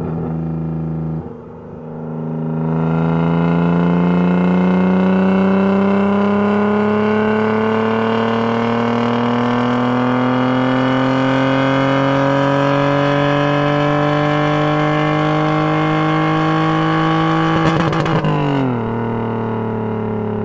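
BMW E36 engine and RR Performance sport exhaust revving, the pitch climbing slowly and steadily for about fifteen seconds. It stutters briefly against the rev limiter near the end, then the revs fall back.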